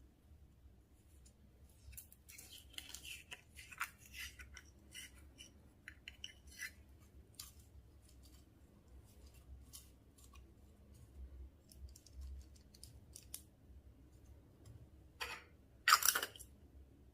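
Slime being worked by hand, making sticky clicks and small pops. There is a dense flurry a couple of seconds in, scattered clicks after that, and a louder crackling squish near the end.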